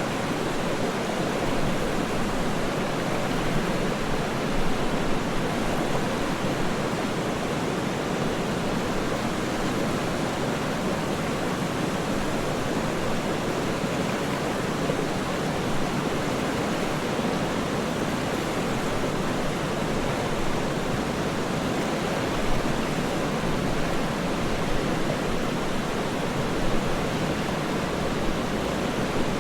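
Waterfall rushing in a steady, unbroken roar of falling water, deep-toned, with no change in level.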